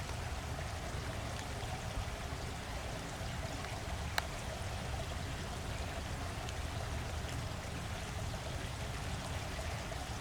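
Steady running water of a small creek, with one sharp click about four seconds in.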